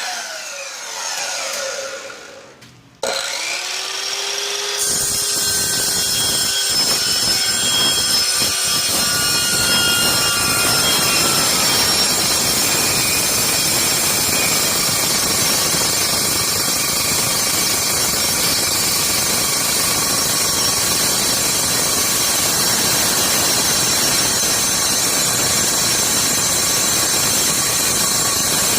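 Circular saw briefly started and winding down, then started again about three seconds in, spinning up and running into a long, steady cut with a high ringing whine.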